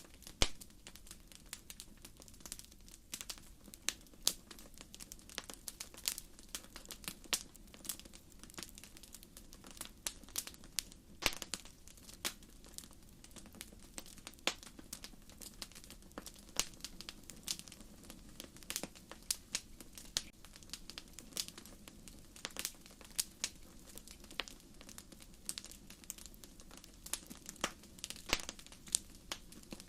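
Wood fire crackling: irregular sharp pops and snaps from burning firewood, a few louder than the rest, over a soft low rush of the flames.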